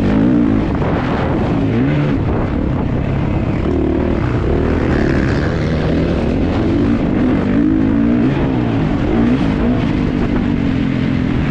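Kawasaki KX450 four-stroke single-cylinder motocross engine racing under load, its pitch rising and falling again and again as the throttle is opened and rolled off.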